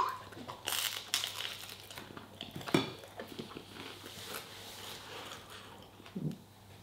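A person chewing a bite of coated chicken close to the microphone: soft crunches and mouth clicks, sharpest about a second in and again near three seconds, with a short low mouth sound near the end.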